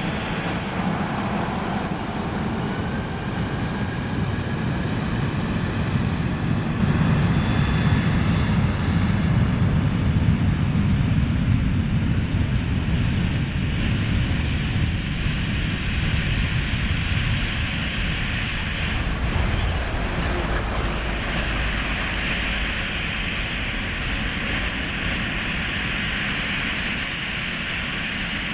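Boeing 737 jet engines during a departure. A loud, broad rumble builds to a peak about ten seconds in and then slowly fades, with a faint rising whine early on.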